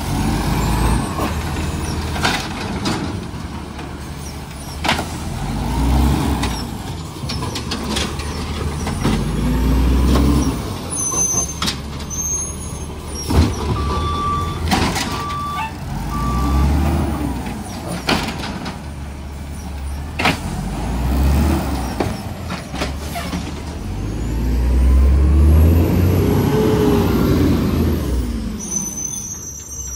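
Garbage truck working: its engine revs up and settles back again and again, with clanks and knocks in between and three short beeps midway.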